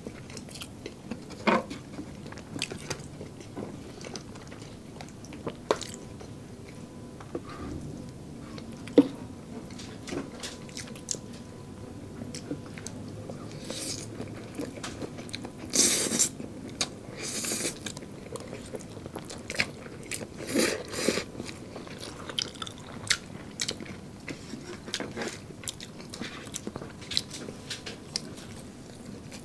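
Close-up mukbang eating sounds: biting and chewing of fried chicken nuggets and spaghetti noodles, with scattered crunches and small mouth clicks. There are louder bursts of crunching about halfway through.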